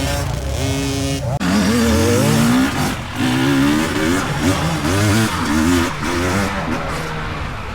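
Dirt bike engine revving hard, its pitch climbing and falling over and over as the bike pulls away. A steady engine tone holds for the first second and a half before the revving starts.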